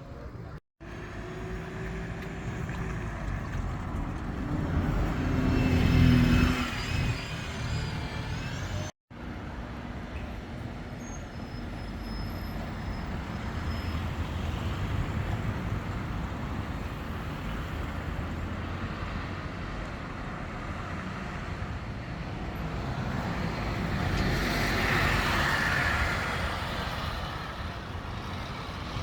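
Street traffic with vehicles passing, in clips cut together. The loudest pass comes about six seconds in, carrying a whining tone. Another vehicle swells past near the end.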